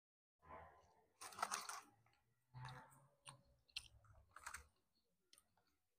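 Someone eating, chewing and crunching food in short irregular bursts, with a few sharp clicks.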